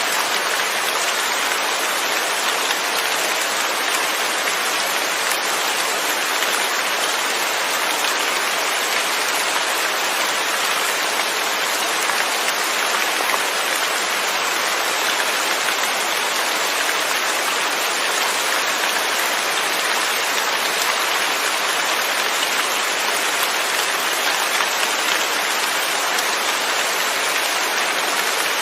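Steady rain falling without thunder: an even hiss of raindrops hitting surfaces.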